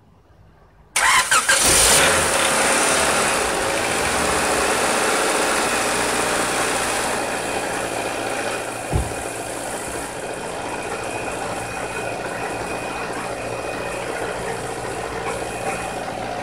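Honda car engine starting on a recharged old car battery: it catches loudly about a second in, then settles into steady idling that eases slightly after a few seconds. A single low thump comes about nine seconds in.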